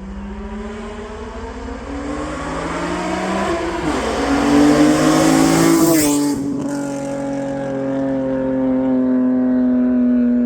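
BMW E46 M3's straight-six engine through a Valvetronic exhaust, accelerating hard with its pitch climbing. There is a short dip about 4 seconds in, then it climbs to a peak near 6 seconds, where the pitch drops sharply and it carries on at a lower, steady, slowly falling pitch.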